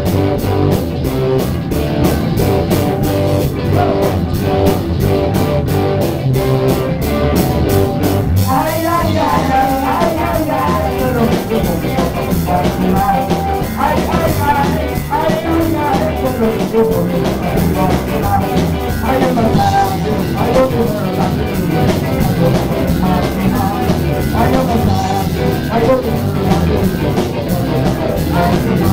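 A rock-and-roll band playing a song with electric guitar and drums, opening on a steady quick hi-hat beat. A wavering melody line, singing or lead guitar, comes in about nine seconds in.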